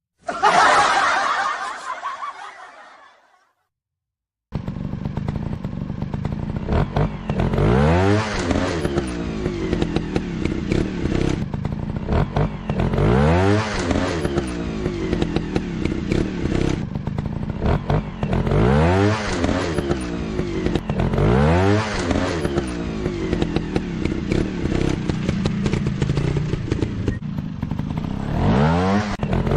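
A motorcycle engine revving up and falling back over and over, a rise about every two and a half to three seconds. Before it, a sound fades out over the first three seconds, followed by a second of silence.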